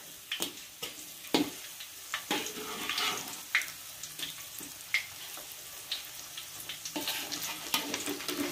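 Battered shrimp frying in oil in a wok, a steady sizzle, with sharp clicks and scrapes of a metal spatula against the pan as the pieces are turned over.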